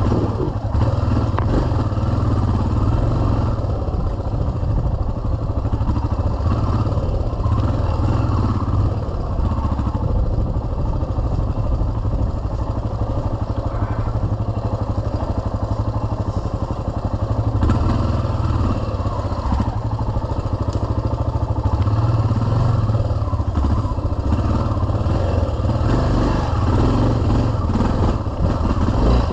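Yamaha XT 600's air-cooled single-cylinder four-stroke engine running steadily under load, with a deep, continuous engine note. Knocks and rattles come through as the bike jolts over rough ground.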